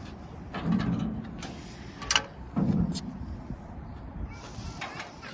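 Tractor's sheet-metal engine cover being unlatched and lifted open: low metallic clunks, with two sharp clicks about two and three seconds in.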